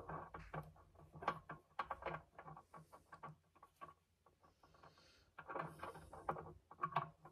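Faint, scattered clicks and taps of an H3 LED headlight bulb being handled and seated in a plastic headlight housing by gloved hands, with light rustling.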